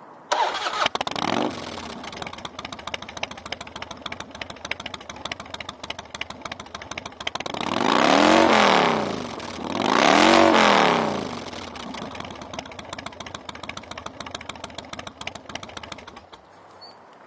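2002 Harley-Davidson Dyna Low Rider's 88 cubic inch V-twin with Vance & Hines exhaust starting up, then idling. The throttle is revved twice, each rev rising and falling, and the engine stops near the end.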